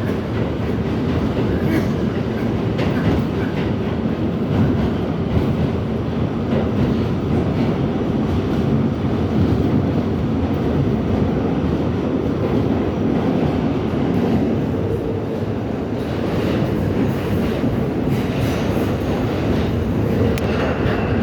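R68 subway train running, a steady loud rumble of wheels and motors on the track.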